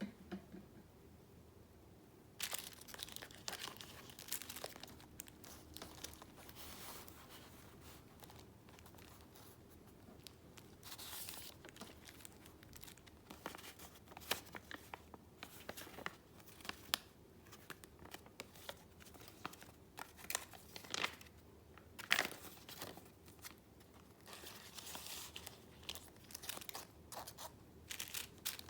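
Paper being handled by hand: irregular crisp rustling and crinkling with sharper crackles, starting a couple of seconds in and coming in bunches.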